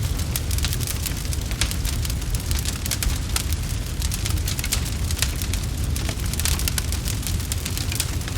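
Wood fire crackling and popping, with many small sharp snaps over a steady low rumble of flames.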